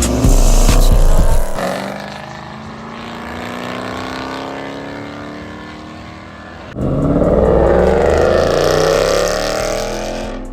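Car engines accelerating hard, their pitch climbing through the gears. A slower, steadier rise follows, then about two-thirds of the way in the sound jumps abruptly to a louder pass with the engine pitch again climbing.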